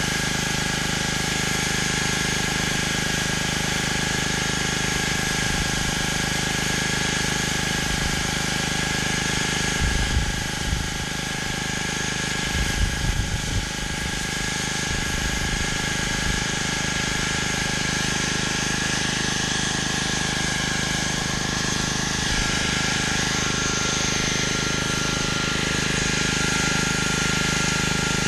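Gas-engine pressure washer running steadily, with the hiss of a high-pressure water spray on concrete. A few brief low rumbles come about ten and thirteen seconds in.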